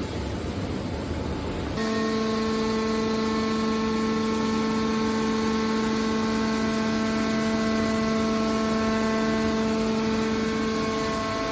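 Hydraulic scrap metal baler running: a rumbling machine noise, then, about two seconds in, an abrupt change to a steady pitched hum from its hydraulic power unit.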